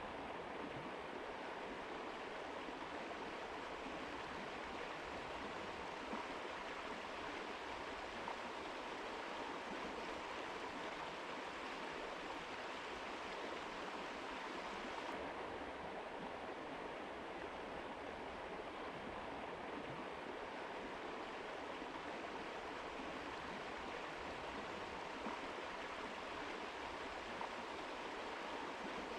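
Mountain river flowing steadily, an even rush of water with no breaks; about halfway through, its highest hiss softens slightly.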